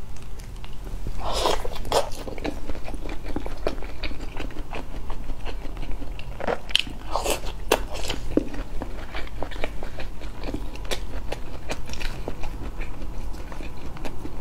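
Close-miked eating sounds: a person biting into and chewing a soft fried fish cake, with many small clicks and crackles of the mouth and food.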